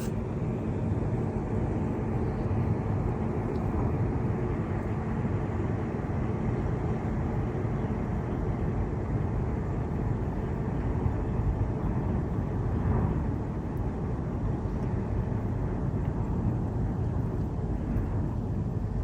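Steady low rumbling noise that runs on without a break, with no clear tones or knocks.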